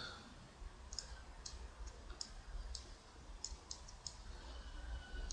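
Faint computer mouse clicks, about ten at irregular spacing, as edges are picked in modelling software, over a low steady hum.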